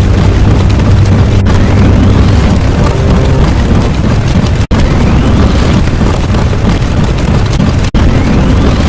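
Loud, dense explosion-like rumble, cut off and restarted about every three seconds, with a faint rising whistle in each part.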